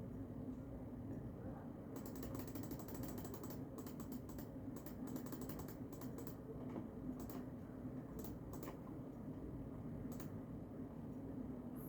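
Typing on a computer keyboard: a quick run of key clicks, then scattered single keystrokes, over a steady low background rumble.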